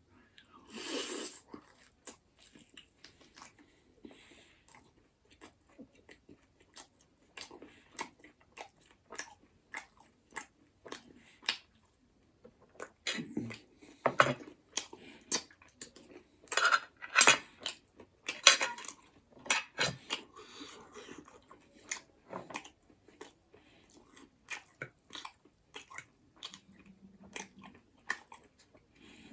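Close-miked eating of buffalo bone marrow: many wet chewing and crunching sounds, with a denser, louder run of bites midway through.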